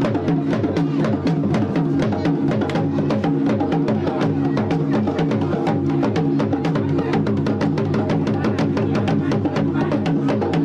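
Music with fast, dense drumming and a steady, sustained melody line above it.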